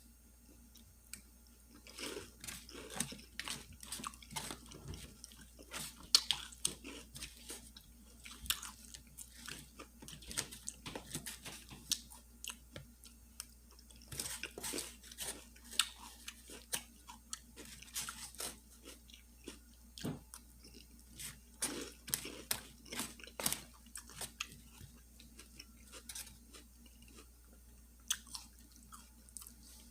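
Close-up chewing of a fish sandwich and salad, with irregular crunchy bites and moist mouth sounds that thin out near the end.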